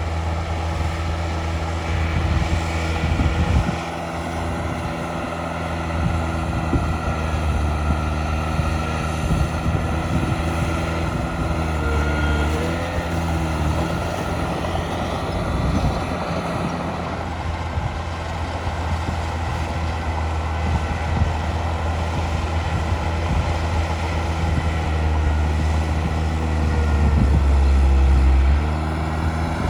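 Heavy earthmoving machine's diesel engine running steadily under work. Its note dips and recovers about twelve seconds in, and again near the end, where it is loudest.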